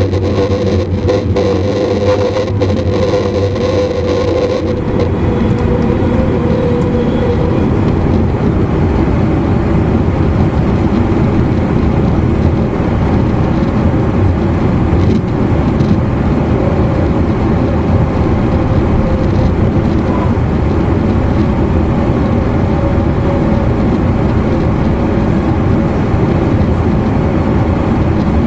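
Running noise inside an E259 series Narita Express motor car at speed: a steady rumble of wheels on rail with traction-motor hum. A steady mid-pitched motor tone fades out about five to eight seconds in, and the high hiss drops off at about the same time.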